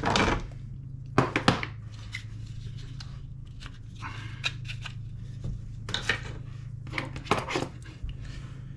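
Scattered sharp clicks and light knocks of a metal airsoft gas-blowback trigger box and its small parts being handled, in small groups about a second in and again after six seconds. Under it runs a steady low hum.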